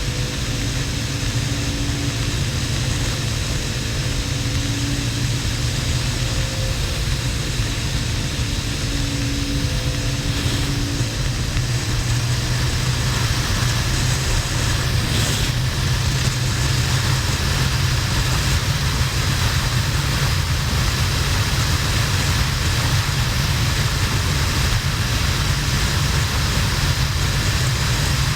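Harley-Davidson XL1200N Nightster's air-cooled V-twin running steadily at motorway cruising speed, with a constant rushing noise over a deep steady drone.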